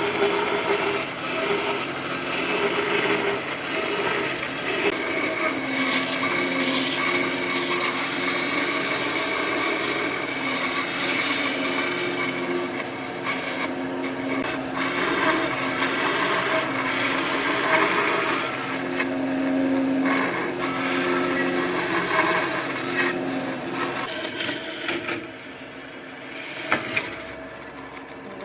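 A woodworking power tool running against wood: a steady motor tone under rasping noise. It stops about three seconds before the end, and a couple of sharp knocks follow.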